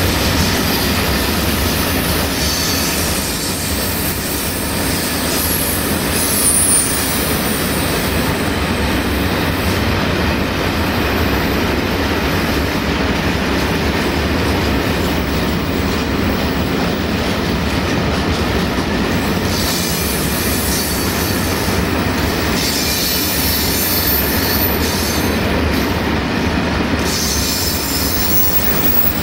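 Open-top freight wagons rolling past on a curve: a steady rumble and clatter of wheels on rail, with high-pitched wheel squeal at times.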